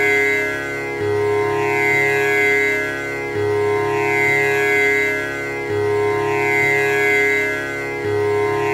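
Tanpura drone: its strings are plucked in a repeating cycle that starts over about every two and a half seconds, with a low note opening each round. The buzzing strings give a shimmering overtone sweep over a steady sustained hum.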